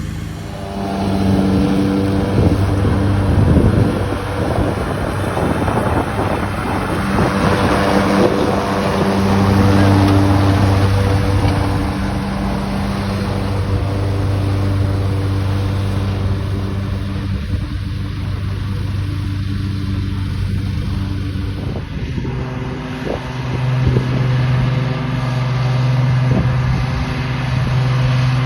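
Hustler riding lawn mower's engine running steadily under mowing load, with wind buffeting the microphone. Its pitch steps up about 23 seconds in.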